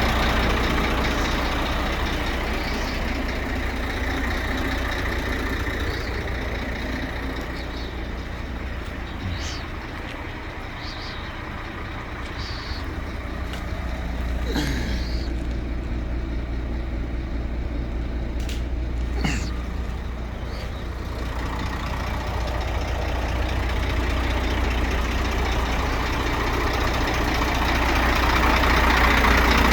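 Scania P380 dump truck's diesel engine running with a steady low rumble that eases off in the middle and builds up again near the end. A few short high chirps and squeaks, with two brief falling tones, come in the middle.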